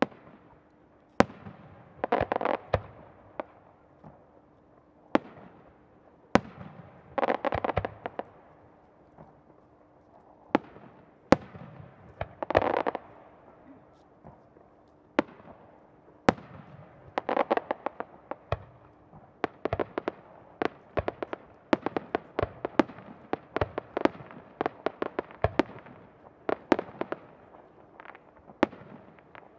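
Japanese aerial firework shells bursting. Sharp bangs come every few seconds, several of them followed by about a second of crackling. About two-thirds of the way in, the bangs give way to a dense run of pops and crackles.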